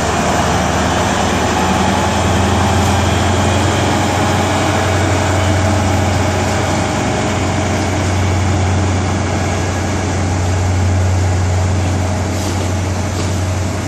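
Diesel engine of a Class 43 HST power car running as the train moves off, a loud, steady, deep drone with no let-up.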